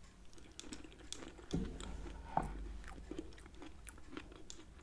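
Close-miked chewing of a spoonful of strawberry shortcake (cake, whipped cream and strawberries), heard as many small, faint mouth clicks and smacks.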